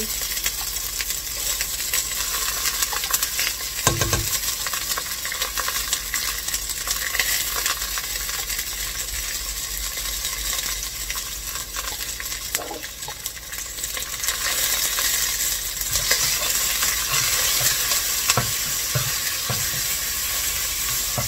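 Yellow spice paste frying in hot oil in a pot, sizzling steadily. A single thump about four seconds in, and a spoon scraping and knocking against the pot in the second half as the paste is stirred.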